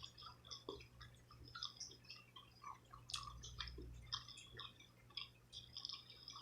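Faint close-up chewing of a salmon sushi roll: soft, irregular wet mouth clicks and smacks, over a steady low hum.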